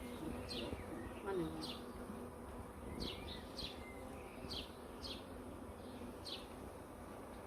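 A mass of honeybees buzzing in a steady hum around an open hive, with a bird chirping short, falling notes again and again over it.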